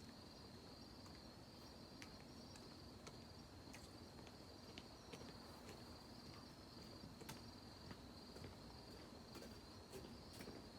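Faint, steady trilling of insects, with a few soft scattered clicks over quiet background noise.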